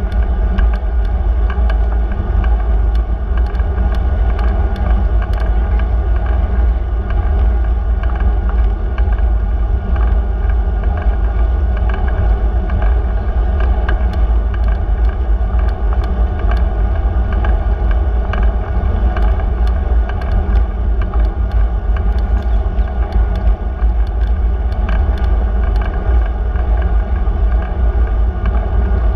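Steady low rumble of a bicycle ride recorded from the moving bike, with road and tyre noise and air moving over the microphone, plus faint scattered ticks.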